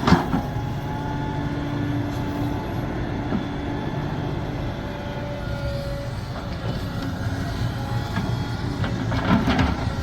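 Sumitomo SH370LHD-6 excavator working: a steady low engine rumble with thin whining hydraulic tones over it. There are loud knocks just after the start and again near the end.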